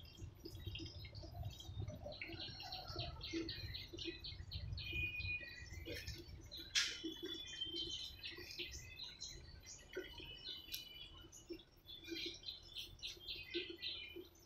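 Small birds chirping, many short high calls overlapping without a break, with one sharp click about seven seconds in.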